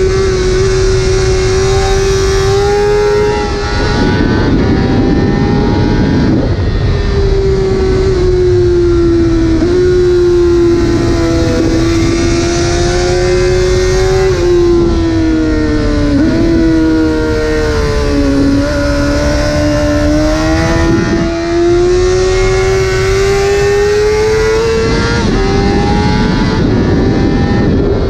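A 2009 Honda CBR600RR's inline-four engine running hard at high revs through a full titanium Arrow exhaust, its pitch holding high, dipping briefly a few times and climbing again, with patches of rushing noise.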